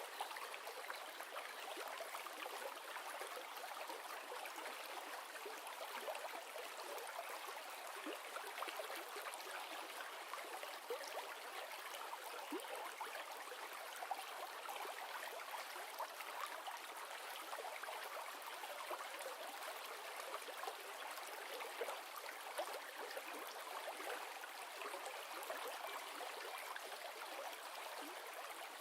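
River ambience: water running steadily over a streambed, a continuous rushing with small splashes and gurgles flickering through it.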